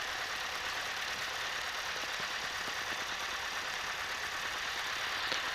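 Cessna 152's four-cylinder Lycoming engine running at low taxi power, a steady drone as heard inside the cabin through the headset intercom.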